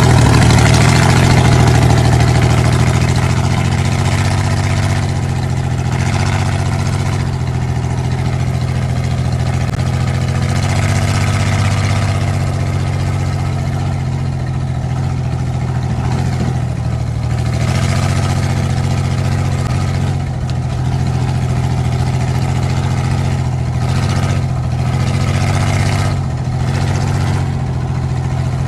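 A car engine idling steadily, its low hum rising and falling slightly.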